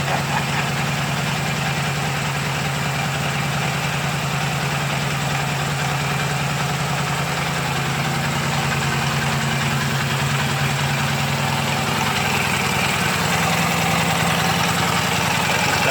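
K-750M motorcycle's side-valve flat-twin engine idling steadily, with the right cylinder's valves noisy and one cylinder not running properly after 26 years standing. It gets slightly louder near the end.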